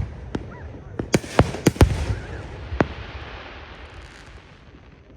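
Aerial fireworks bursting: a quick run of four sharp bangs between about one and two seconds in, another bang just before three seconds, then a fading crackle.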